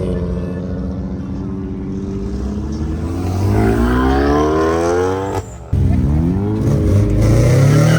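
Car engine accelerating hard, its pitch climbing steadily, then cutting out briefly about five and a half seconds in, as at a gear shift, before climbing again.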